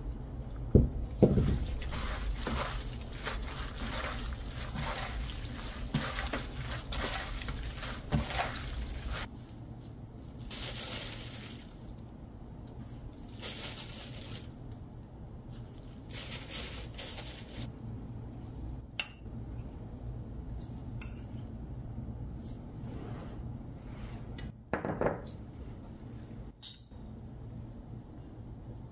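Kitchen and table sounds: dishes, glassware and utensils clinking, with several short hissy spells of liquid being poured.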